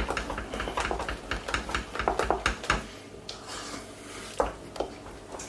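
A utensil beating a thick cheese sauce in a saucepan: quick scraping clicks against the pan, busiest in the first three seconds and sparser after.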